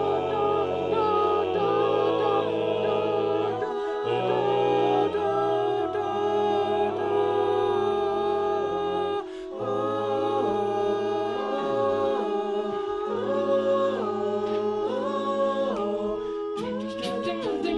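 Male a cappella group singing in close harmony: held chords that shift over a sung bass line, with a brief break about nine seconds in. Short, crisp clicks join near the end.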